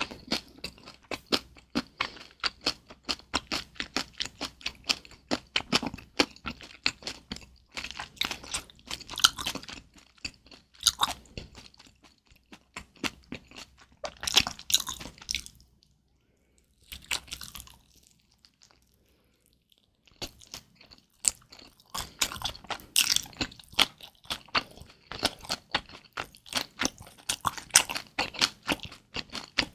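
Close-miked chewing of kimchi dumplings: rapid wet, crunchy clicks and crackles as the mouthfuls are chewed. The sound stops for a few seconds past the middle, then the chewing starts again.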